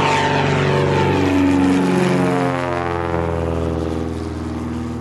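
Small propeller aircraft passing close by, loudest in the first couple of seconds, its engine and propeller pitch dropping steadily as it goes past and away.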